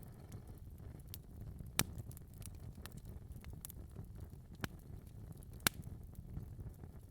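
Wood fire crackling in a fireplace: a steady low rumble of flames with scattered sharp pops and snaps, the loudest two about two seconds and nearly six seconds in.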